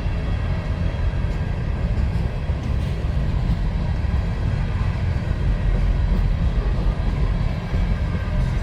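Freight train of empty mine cars rolling past, a steady heavy noise of wheels on rail.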